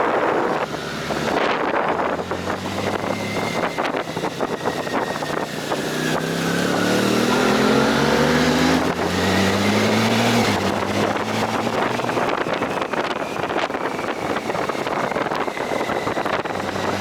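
Motorcycle engine accelerating uphill. Its pitch climbs for several seconds, drops with a gear change, climbs briefly and drops again. Wind buffets the microphone throughout.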